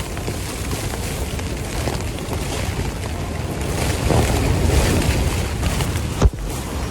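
Storm-force wind gusting against a tent, heard from inside, with a heavy rumble of wind on the microphone that swells about four seconds in. A single sharp click about six seconds in.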